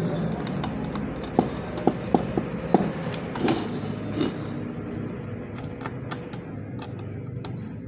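Light clicks and taps of small objects being handled, about five in quick succession early on and a few more later, over a steady low background rumble.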